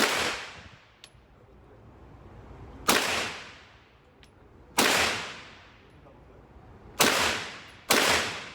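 Five gunshots, fired at irregular spacing with the last two close together. Each is a sharp crack followed by a long fading echo.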